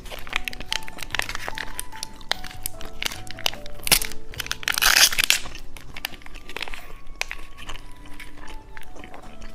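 Plastic candy wrapper crinkling and being torn open, loudest in a long rustle about four to five seconds in, over background music.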